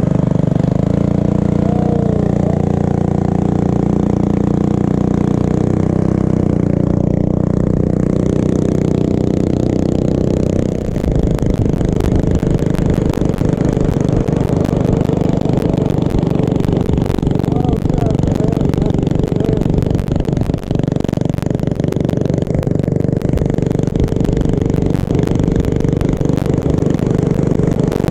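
Small mini bike engine running steadily under way. From about ten seconds in, a fast, irregular rattling clatter joins it.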